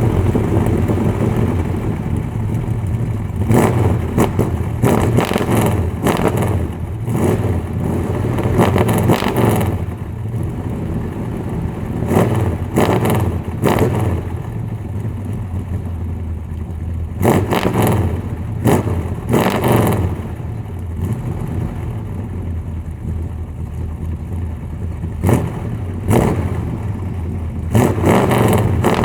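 1969 Chrysler Newport's 440 big-block V8 running through a dual 2½-inch exhaust with an H-pipe and Dynomax Race Bullet mufflers, idling with a steady low rumble and revved again and again in short throttle blips, with a calmer idle stretch a little after the middle.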